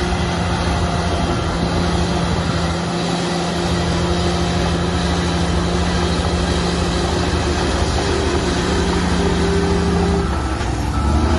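Heavy construction machinery running: a large diesel engine working steadily with a continuous low hum and a rumble underneath. The hum stops and the rumble grows about ten seconds in.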